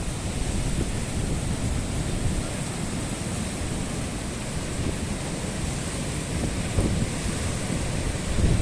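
Strong storm wind buffeting the microphone: a steady low rushing with small gusts.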